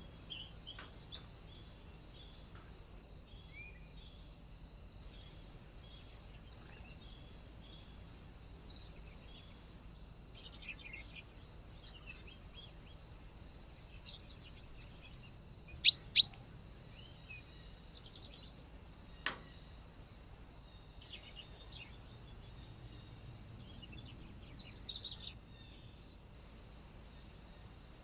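Small birds at a feeder giving scattered short chirps and calls, with two loud sharp calls a little past halfway and a single click a few seconds later, over a steady faint hiss.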